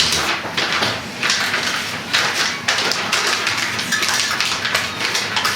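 Prayer beads being handled and packed: an irregular run of light clicks and rustling.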